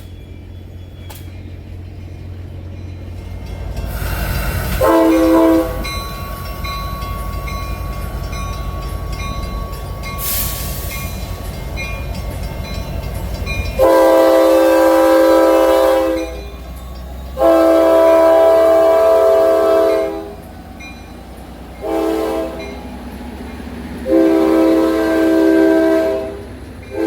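Approaching train rumbling, its locomotive air horn sounding a chord of several notes. After one short toot about five seconds in, the horn plays two long blasts, a short one and a final long one: the standard grade-crossing warning signal.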